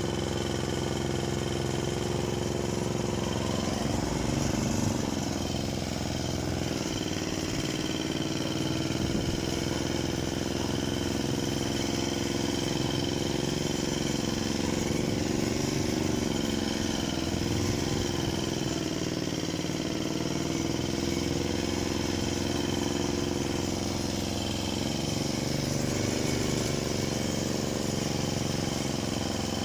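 Parma BP-058 two-stroke petrol chainsaw running steadily, its engine pitch dipping and recovering slightly.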